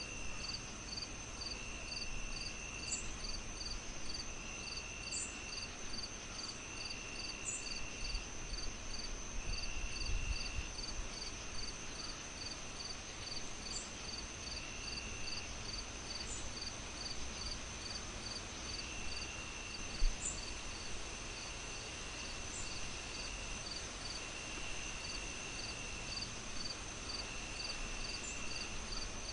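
Crickets chirping steadily, about two chirps a second, with a second insect trilling in runs of a second or so. Underneath is the soft crackle of a fireplace fire, with a single sharp pop about twenty seconds in.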